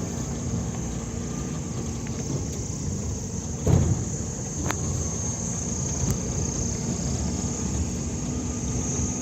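A vehicle driving over a rough dirt track, a steady low rumble with one louder jolt a little under four seconds in. Insects keep up a steady high-pitched buzz behind it.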